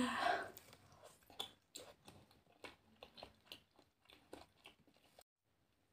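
Faint mouth sounds of someone chewing balut (boiled fertilized duck egg): scattered, irregular soft clicks and small crunches, cutting off abruptly shortly before the end.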